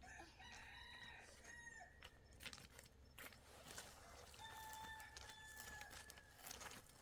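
A rooster crowing twice, faint, each crow a long held call lasting about one and a half to two seconds.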